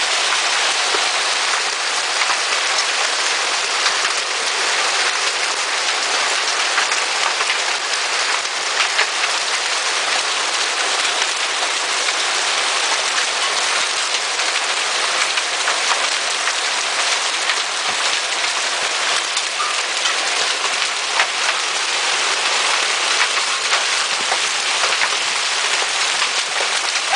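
Hail and heavy rain pelting down: a dense, steady hiss of rain scattered with many sharp ticks of hailstones striking hard surfaces.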